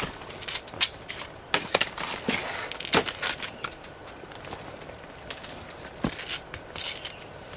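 Irregular snapping and crackling of dry leaves and twigs with rustling, in uneven sharp cracks, as of someone moving through or handling forest undergrowth.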